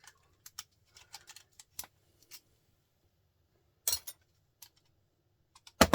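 Hand tools working on a small printer motor's metal casing: a string of light clicks and scrapes, then a sharp metallic clank about four seconds in and a louder one near the end.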